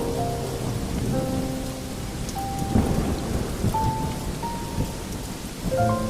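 Steady rain with low thunder rumbling, mixed with a few soft, sparse held notes of a slow melody that come more often near the end.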